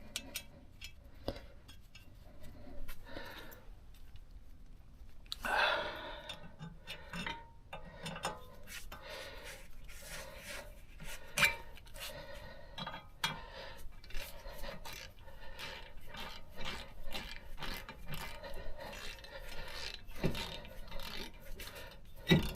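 Hand scraping and rubbing on metal, with many light clicks and knocks, and a louder scrape about five and a half seconds in.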